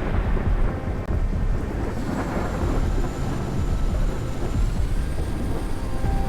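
Steady low rumble with no distinct bangs or blasts.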